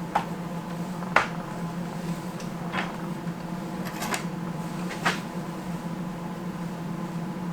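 About five short, sharp knocks and clacks of wood and tools being handled, over a steady low hum.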